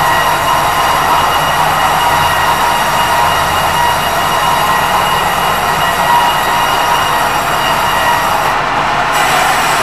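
Loud, steady mechanical running noise with several steady high tones over it.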